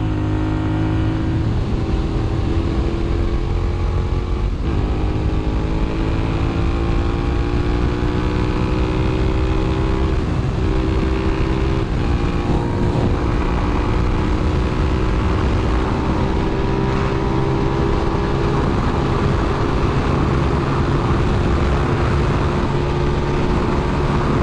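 Motorcycle engine running under way, its pitch climbing slowly with a few brief dips, as at gear changes.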